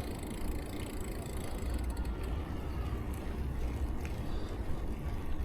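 Bicycle being ridden: a steady low rumble of the tyres rolling, with a few faint mechanical ticks.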